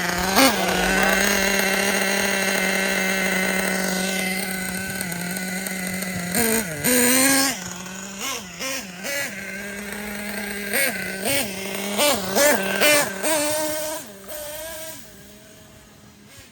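Small .25 nitro engine of an Ofna Titan RC monster truck idling steadily while running rich. About six and a half seconds in it revs up briefly, then gives several short throttle blips over the next few seconds before fading down near the end.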